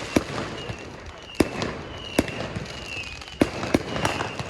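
Fireworks going off: about six sharp bangs over a continuous din of more distant fireworks, with faint short high whistles in between.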